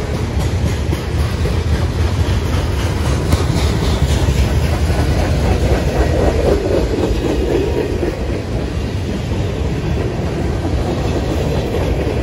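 Freight train cars rolling past with a steady low rumble, their wheels clacking over rail joints.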